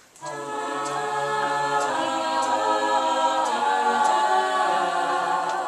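A cappella vocal group singing held chords in several parts, with no instruments. The voices come in together about a quarter second in and cut off just before the end.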